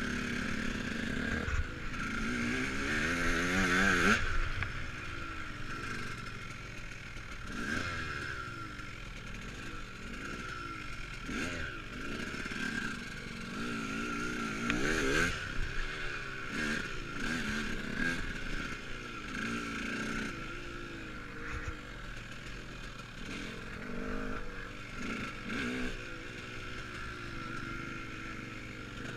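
KTM Freeride dirt bike ridden off-road, its motor pitch rising and falling again and again as the rider works the throttle, with some clattering.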